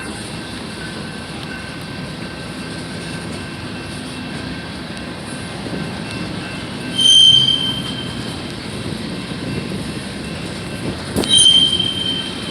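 A train rolling past with steady wheel and rail noise, broken twice by a short, loud, high-pitched wheel squeal, about seven seconds in and again near the end.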